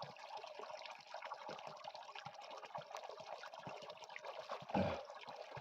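Natural mountain spring water running steadily from its outlet, a faint continuous trickle and splash. Near the end, a short breathy vocal sound cuts in briefly.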